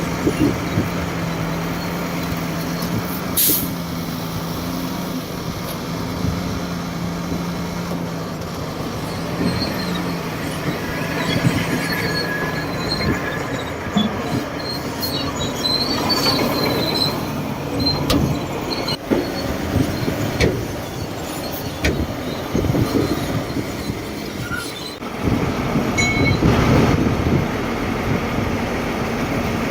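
Shantui DH17C2 crawler bulldozer working: its diesel engine runs steadily while the steel tracks clank and squeal. The engine hum is plainest in the first half; the rougher track clatter and short, high squeals take over from about the middle.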